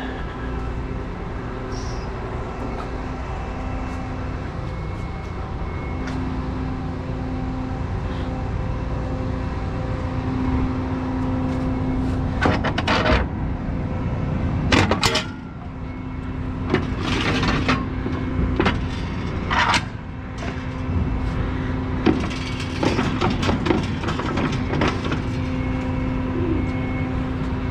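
Semi truck's diesel engine idling steadily, with a run of sharp metallic knocks and short bursts of noise from about halfway through.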